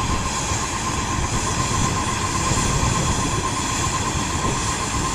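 Helicopter engine and rotor noise: an even, dense drone with a steady high tone running through it.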